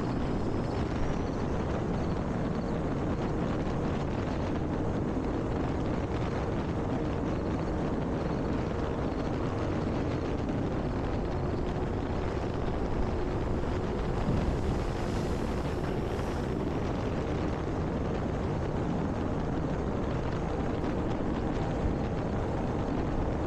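Electric RC plane (E-flite Air Tractor) in flight, its propeller and motor giving a faint steady hum whose pitch drops a little around the middle, under a heavy rumble of wind on the microphone.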